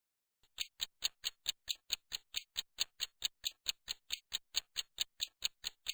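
Ticking clock sound effect, a steady train of short ticks about four a second, starting about half a second in. It works as a countdown timer marking the pause for the learner to say the sentence aloud.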